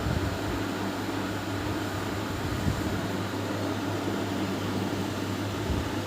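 Steady low mechanical hum over a background hiss, with one faint knock about two and a half seconds in.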